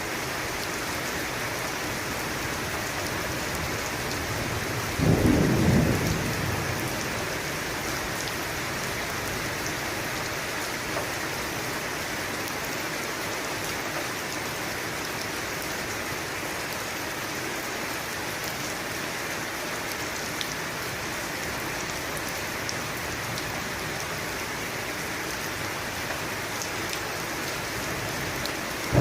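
Steady rain falling, with a single roll of thunder about five seconds in that lasts a second or two.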